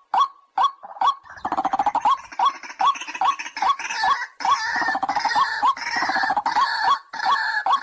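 White-breasted waterhen calling: a sharp note repeated about twice a second. From about a second and a half in, a denser chorus of overlapping harsh, croaking calls joins it, then thins back to the single repeated note near the end.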